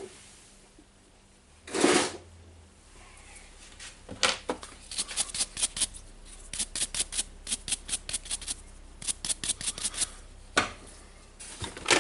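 Hand work on a DeWalt site radio's plastic case during reassembly: a single knock about two seconds in, then from about four seconds in runs of quick, even clicks, about five a second, with short pauses.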